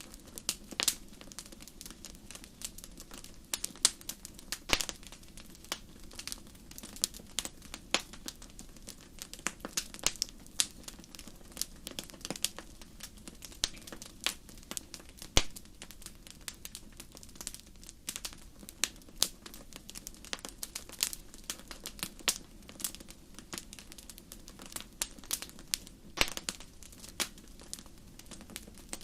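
Wood fire in a fireplace crackling, with irregular sharp pops and snaps several times a second over a low, steady background sound.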